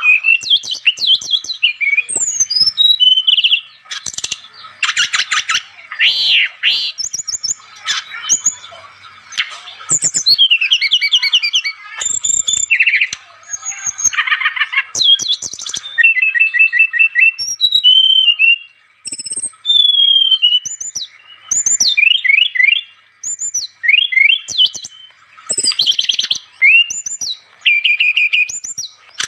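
Brown-chested jungle flycatcher (SRDC, sikatan rimba dada coklat) in full, non-stop song. It gives varied high whistles, slurred notes and rapid trills in quick succession, with only brief pauses between phrases.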